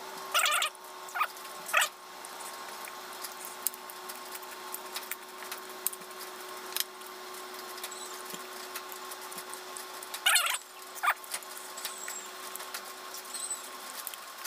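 A person eating crisp-fried fish wrapped in raw lettuce and herbs, close to the microphone: steady small chewing clicks and smacks, with a few louder crunches near the start and again about ten seconds in. A faint steady hum runs underneath.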